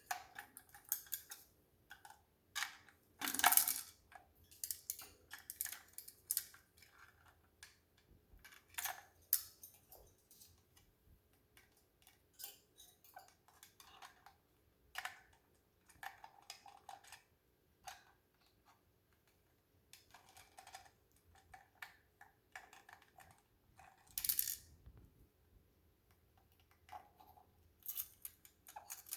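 Cuban Amazon parrot working a puzzle toy: irregular clicks, taps and clatters of the toy's pieces as it is pecked and moved, with a couple of louder clatters about three seconds in and near the end.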